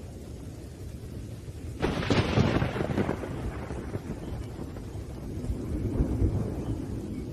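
Thunderstorm: low rumbling thunder, then a sudden loud crack of thunder about two seconds in that fades into rolling rumbles, swelling again near the end, over rain.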